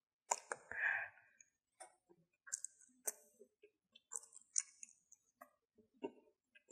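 A short crinkle of the thin plastic sweet-potato packet in the first second. Then a string of faint, close-miked wet mouth clicks and smacks as soft grilled sweet potato is bitten and chewed.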